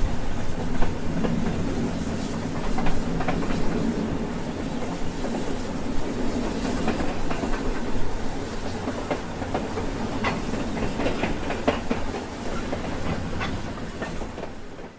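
A train running on rails: a steady rumble with irregular clicks and clatter of wheels over the track, fading out near the end.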